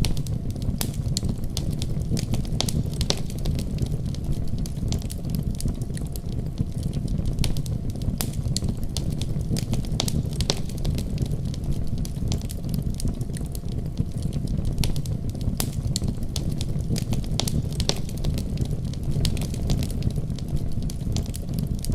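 Wood fire crackling in a fireplace, irregular sharp pops and snaps, over a steady deep rumble of a winter storm outside.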